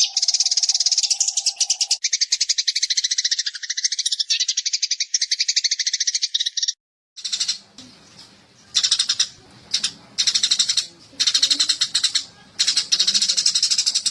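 Eurasian tree sparrow chirping in a fast, tightly packed rattle of high chirps, an unbroken run for the first half, then after a short break a string of roughly one-second bursts of rapid chirping with brief pauses between them.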